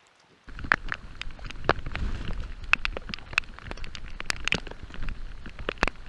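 Rain falling, with many drops ticking sharply and irregularly close to the microphone. It starts abruptly about half a second in.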